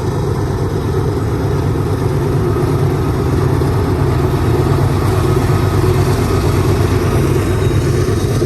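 Freight locomotive diesel engines running steadily in a low drone, growing a little louder.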